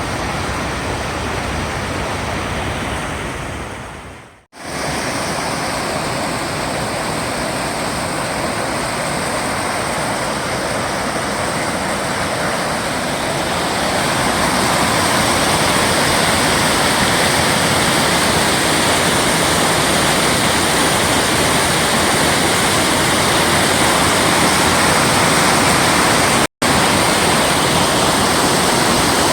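Waterfall rushing, a steady wash of falling water. It fades out about four seconds in and comes straight back, grows louder about halfway through, and cuts out for an instant near the end.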